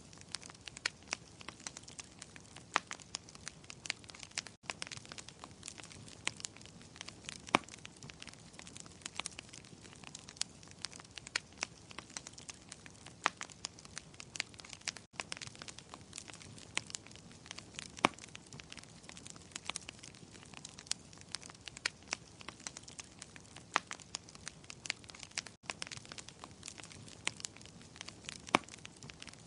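Wood fire crackling: a steady soft hiss of burning with frequent sharp, irregular pops and snaps. The sound drops out for an instant three times, about ten seconds apart.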